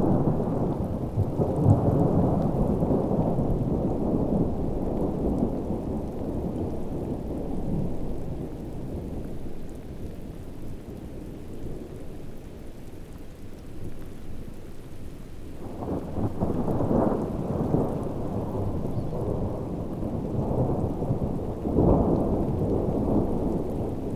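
Thunderstorm: steady heavy rain with low rolling thunder that swells about two seconds in, again around sixteen to eighteen seconds, and near twenty-two seconds.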